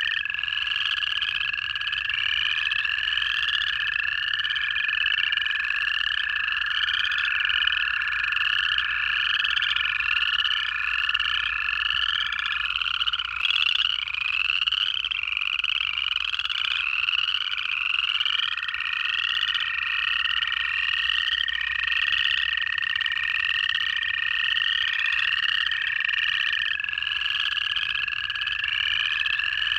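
Frog chorus of upland chorus frogs giving short rising trills, one after another and overlapping. Beneath them, American toads give long, steady, even-pitched trills that last many seconds; these break off a little before halfway and start again a few seconds later.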